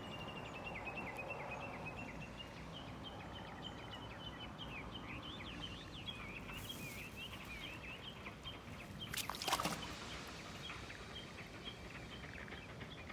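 Frogs calling: a fast, continuous run of short, high-pitched notes. A single sharp knock about nine and a half seconds in.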